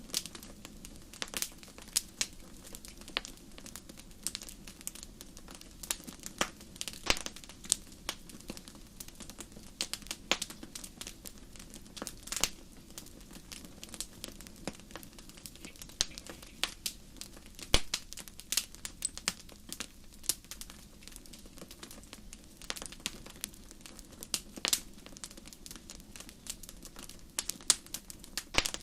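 Wood fire crackling: irregular sharp pops and snaps, some much louder than others, over a soft steady rush.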